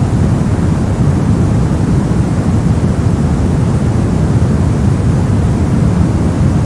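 Steady, unbroken noise track sold as white noise, weighted heavily toward the low end so it sounds like a deep, even rush with no changes.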